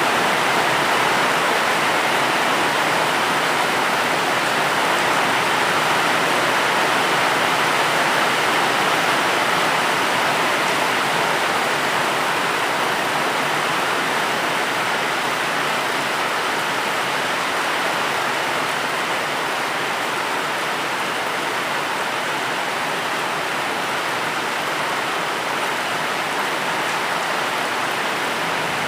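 Steady, dense rain, an even hiss with no separate drops standing out.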